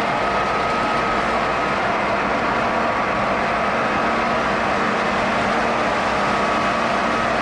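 Model train running on its track: a steady, even rolling noise with a faint steady whine.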